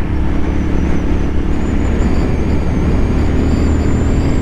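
Royal Enfield Continental GT 650's parallel-twin engine running steadily while riding, with wind noise on the helmet-mounted microphone.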